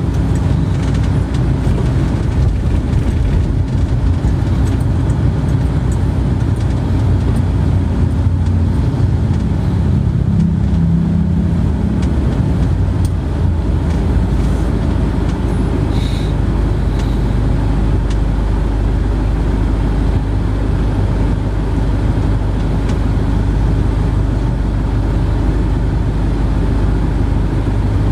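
Steady low rumble of a motor vehicle, with an engine hum under continuous road noise.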